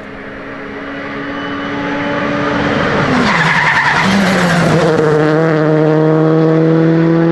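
Rally car approaching on a gravel stage, its engine note steady and growing louder, then dropping about three seconds in as it brakes and shifts down, with a burst of sliding tyre and gravel noise. The engine then pulls hard at a steady, loud note to the end.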